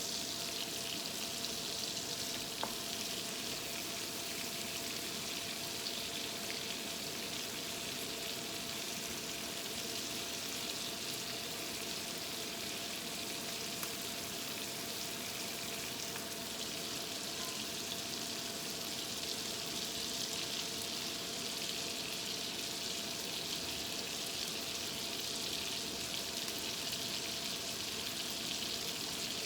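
Food sizzling steadily as it fries in a hot pan, an even crackling hiss, with a faint steady hum underneath.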